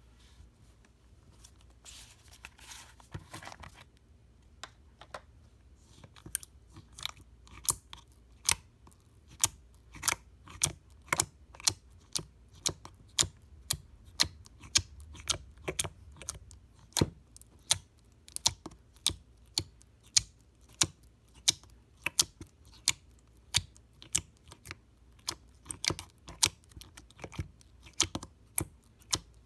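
Slime being pressed and squished by hand, making sharp clicking pops about one to two a second, after a soft rustle in the first few seconds.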